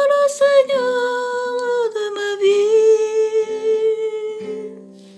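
A woman's voice holding the long final note of a hymn over soft instrumental accompaniment, the note stepping down in pitch twice before fading out near the end.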